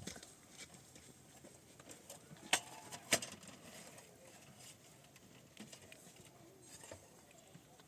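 Two sharp knocks about half a second apart, a few seconds in, over faint scattered small sounds.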